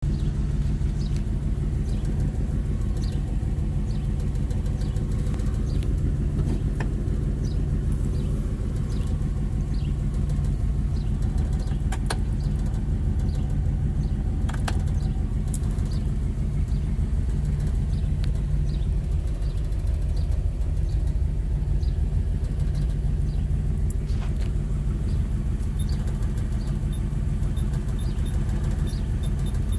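1968 Ford Mustang engine idling steadily, heard from inside the cabin, with a few light clicks near the middle.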